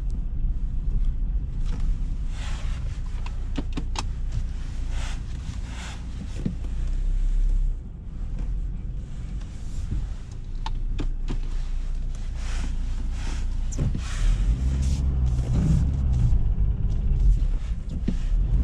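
Ford Ranger pickup's diesel engine running while driving, heard from inside the cab with road and tyre noise. From about fourteen seconds in the engine note grows clearer and rises as the truck pulls harder.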